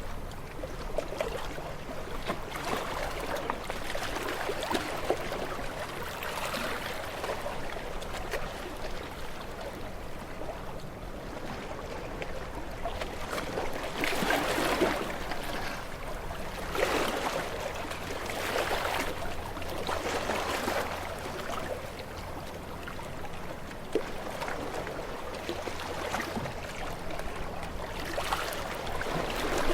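Small, gentle waves washing onto a shore, a surge of surf swelling and fading every two to three seconds.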